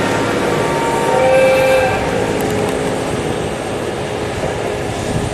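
Tsugaru Railway diesel train running with a steady rumble, a held, horn-like chord of tones sounding over it for the first two seconds and shifting in pitch about a second in.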